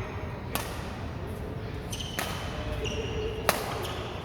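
Badminton rally: three sharp racket strikes on the shuttlecock, roughly one every second and a half, the last the loudest, with faint short squeaks between them.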